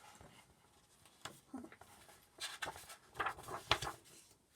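Soft paper rustling in a few short bursts, the sound of a picture book's pages being handled and turned.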